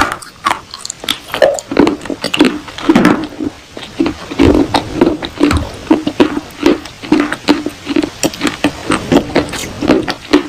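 Close-up chewing of baked clay pot pieces: a rapid, irregular run of sharp crunches as the hard clay breaks between the teeth.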